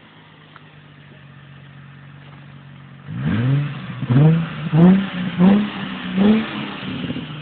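Nissan 350Z's 3.5-litre V6 idling, then, about three seconds in, revved in five quick throttle blips, each rising and falling in pitch, before settling back to idle.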